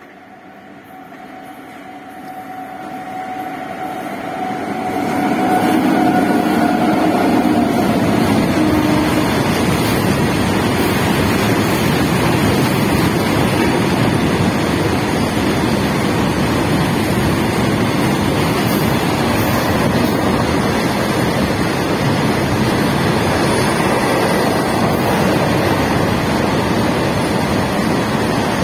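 Long goods train of empty BOXN open wagons approaching and running past close by. It grows louder over the first five seconds or so, then holds as a steady loud rolling noise of wheels on the rails.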